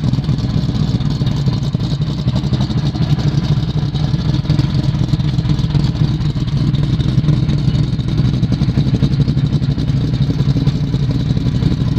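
Rebuilt 302 solid-lifter DZ small-block V8 of a 1969 Camaro Z28 idling steadily through headers, heard at the exhaust. The Z28 cam gives a lumpy idle in which every cylinder's firing can be heard.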